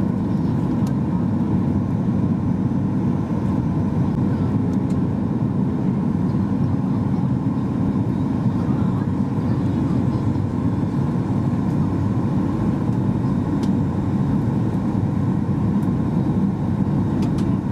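Steady low rumble of cabin noise inside a Boeing 737 MAX 8-200 in flight: its CFM LEAP-1B engines and the airflow over the fuselage, holding an even level throughout.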